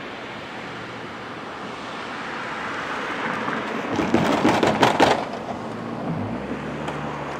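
A motor vehicle passing close by, building to its loudest about four to five seconds in, then a steady low engine hum.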